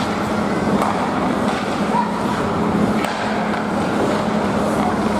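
Ice hockey rink sound: skates scraping and carving the ice over a steady arena hum, with a couple of sharp clacks of sticks or puck.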